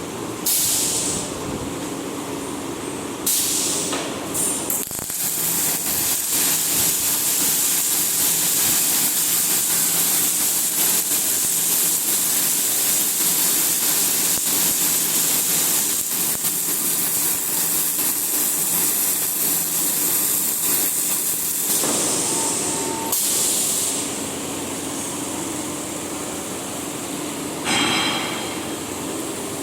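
Rotary welding machine at work: after a few short bursts, a welding arc hisses and crackles steadily for about seventeen seconds, starting about five seconds in and stopping about three-quarters of the way through, with two more brief bursts after it. A steady hum from the machine runs underneath.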